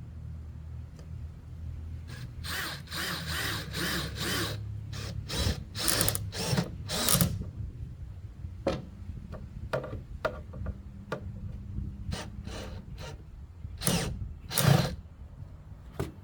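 Power drill driving screws into wood in a series of short runs. Clicks and knocks of handling the boards come in between, and there are two louder bursts near the end.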